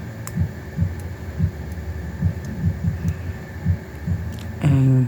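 Low throbbing pulses, a few a second, with a short held note from a person's voice about four and a half seconds in.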